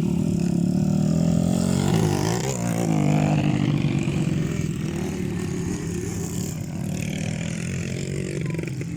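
Motocross bike engines running, with a rev that rises and falls about two seconds in.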